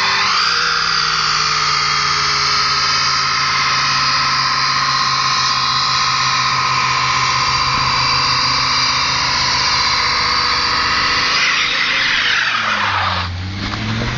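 Mercedes 190D 2.5 Turbo's five-cylinder turbo diesel held at high revs through its automatic while the rear tyres squeal steadily in a burnout. About eleven seconds in the revs and squeal fall away, then the engine revs up again near the end.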